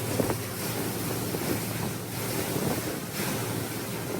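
Wind buffeting the microphone over the rush and slap of choppy water against the hull of a 28-foot Regulator boat under way, with the steady low drone of its twin 300 hp outboards underneath.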